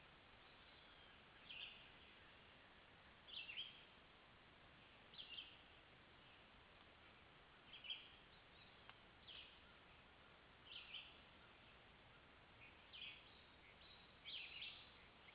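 Faint bird song: a short, high phrase repeated about eight times, every one and a half to two seconds, over a steady hiss.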